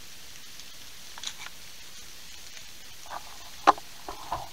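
Steady patter of rain on the leaves around the stand, with a few light taps and one sharp knock about three and a half seconds in as the camera is handled and repositioned.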